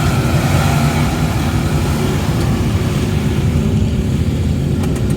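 A truck engine held at steady high revs while the truck plows through deep mud, its wheels spinning as it bogs down and gets stuck.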